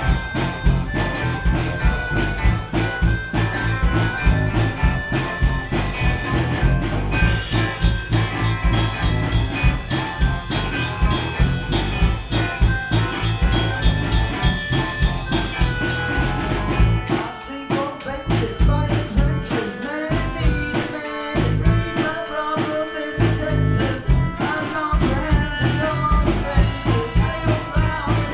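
Live gypsy rock band playing with a steady drum beat, bass and melodic instruments. About six seconds in the high cymbal wash drops away. Past the middle the bass and drums break into a few seconds of short stop-time hits, then the full groove comes back.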